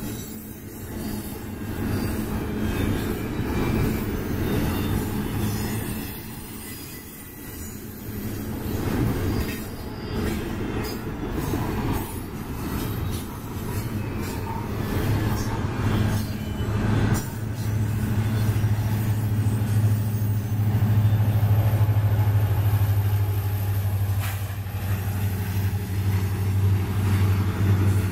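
Freight cars of a double-stack intermodal train rolling past with a steady low rumble of wheels on rail, a few sharp clanks and some wheel squeal. From a little over halfway in, a steady low engine hum from the mid-train distributed-power diesel locomotive, an EMD SD70ACe, joins and becomes the loudest sound.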